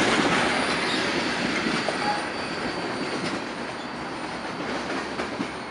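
Loaded tank cars of a freight train rolling past on steel wheels over jointed track, the rumble and clatter fading steadily as the end of the train draws away. A faint high wheel squeal sounds briefly in the middle.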